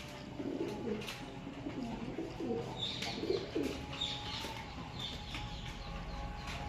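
Domestic pigeons cooing, a run of low coos through the first half, with a few short high chirps from other birds around the middle.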